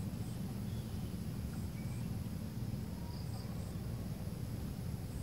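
Steady low rumble of outdoor background noise with faint, scattered short high chirps and ticks.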